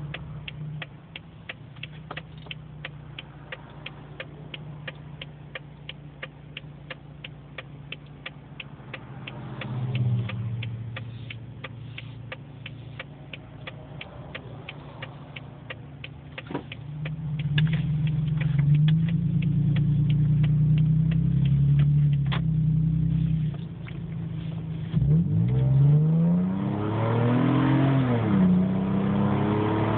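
Exhaust of a 2008 Toyota 4Runner's 4.0 V6 through a DirtyDeeds muffler, rear resonator cut off and exiting at the side: a low, steady drone with a regular ticking over it, growing louder about halfway through. In the last few seconds the engine revs up, its pitch rising as the truck accelerates.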